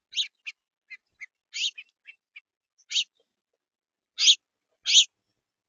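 House finches giving short, sharp chirp calls: a dozen or so separate notes with pauses between them, the loudest two near the end.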